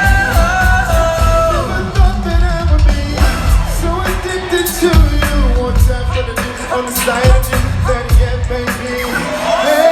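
Live R&B concert music: a singer holds long notes that slide between pitches over a backing band with a heavy bass beat.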